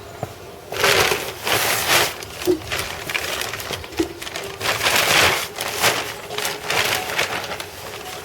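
Fine sawdust being packed tightly into a metal tin around a pipe for a sawdust stove: a series of rough, crunching rustles starting about a second in.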